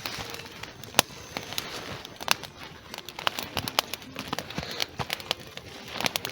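Campfire of damp wood burning, with irregular sharp crackles and pops over a faint hiss.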